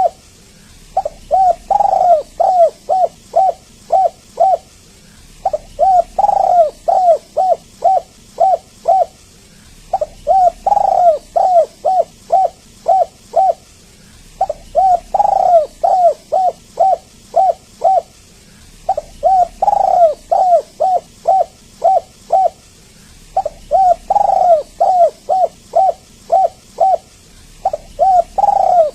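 Spotted dove (tekukur) cooing: phrases of about eight short, falling coos, the second coo longer and louder, repeated at even intervals about every four and a half seconds.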